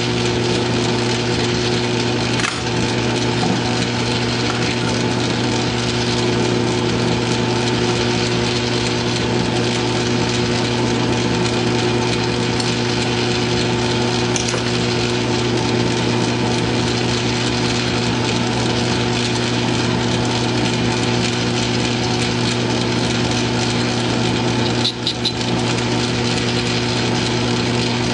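South Bend metal lathe running steadily with its motor humming while a boring cut is taken in the dial. There is a brief dip in the noise about 25 seconds in.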